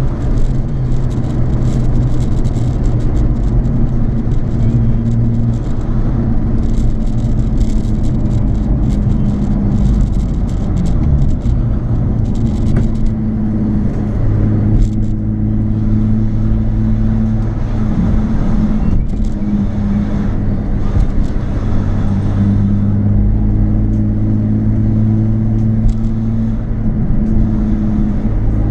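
Nissan 350Z's 3.5-litre V6 running through an aftermarket Japspeed exhaust while driving: a steady low drone whose pitch shifts a few times along the way.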